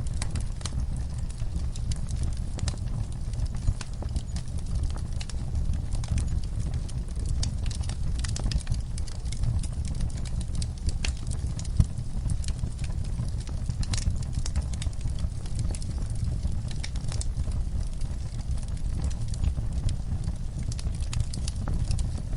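Wood fire crackling in a fireplace, with frequent sharp irregular pops and snaps over a steady low rumble of the burning flames.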